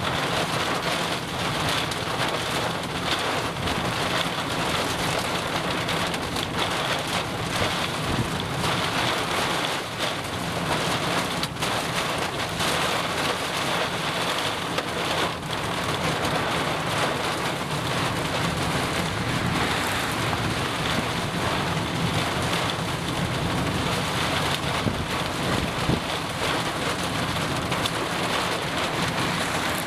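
Heavy rain and wind of a tornadic thunderstorm: a steady rush of rain with many small drop ticks and a constant low rumble underneath.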